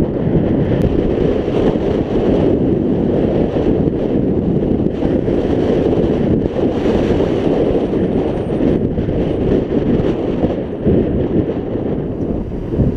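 Heavy wind buffeting a GoPro microphone while riding a scooter, a loud steady rushing that covers the engine.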